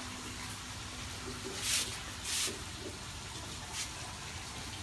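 Water running steadily from a tap, with two short hissing surges of water about two seconds in.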